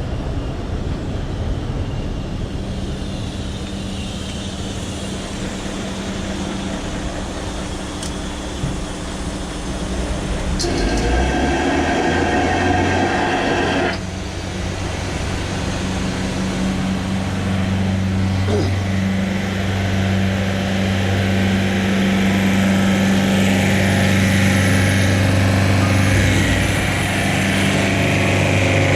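Loud machinery of a working plant running with a steady low hum. About ten seconds in a harsher, louder noise joins it and cuts off suddenly some four seconds later.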